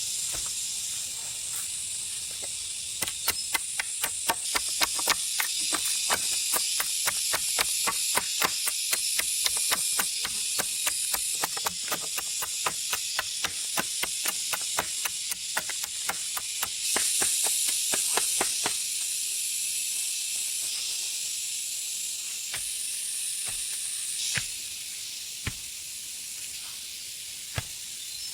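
A rapid run of sharp clicks or taps, several a second, over a steady high-pitched hiss; the taps thin to a few scattered knocks after about two-thirds of the way through.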